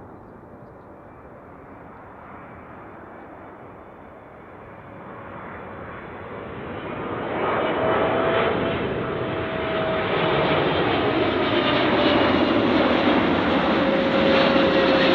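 Airliner's jet engines on short final approach, faint at first and growing loud over a few seconds as it comes overhead, with a steady engine whine that slowly falls in pitch toward the end.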